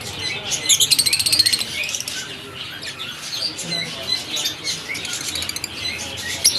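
A pair of green Fischer's lovebirds chirping and chattering: a stream of short, high chirps, with a dense burst of fast chatter about a second in.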